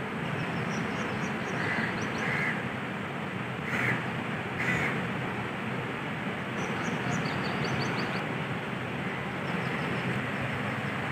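Birds calling over a steady hiss: a few short calls in the first five seconds and two quick runs of high chirps, one early and one about halfway through.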